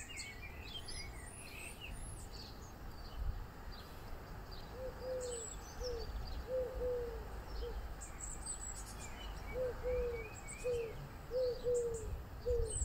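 Garden birdsong: low cooing notes repeated in short phrases of one or two, in two runs, with small birds chirping and twittering higher up.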